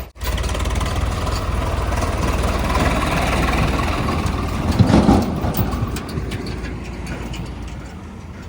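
Heavy diesel vehicle engine running steadily, with a brief louder rumble about five seconds in, then fading off gradually.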